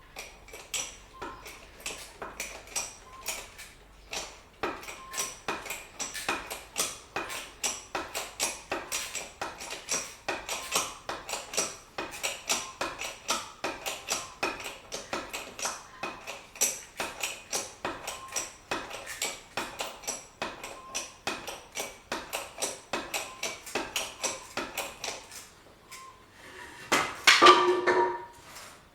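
Metal being tapped rapidly and steadily, about three or four ringing strikes a second; the tapping stops near the end and a louder metallic clatter follows.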